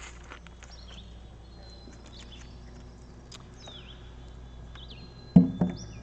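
Faint birds calling and chirping, with a few scattered sharp clicks, then several loud low thumps a little over five seconds in.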